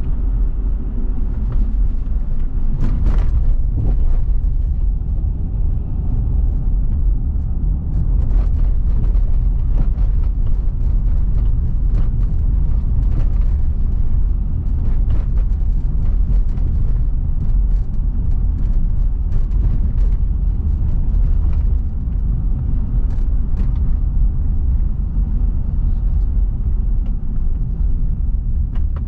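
Car driving on city streets: steady road and tyre rumble with engine noise, heavy in the low end, with a short click or knock now and then from bumps in the road.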